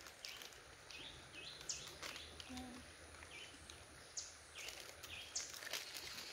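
A small bird calling repeatedly, short high chirps that each drop quickly in pitch, over a faint outdoor background with a few soft clicks and rustles.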